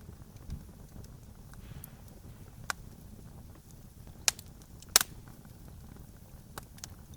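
Campfire crackling: a handful of sharp pops from the burning wood, the loudest about five seconds in, over a low steady rumble.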